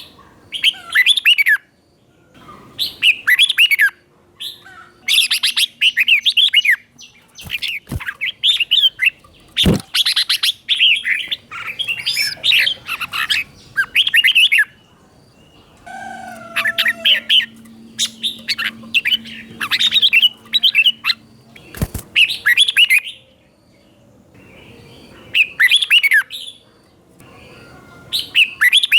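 Red-whiskered bulbul singing short, quick warbled phrases over and over, with brief pauses between them. A few sharp knocks come in between the phrases.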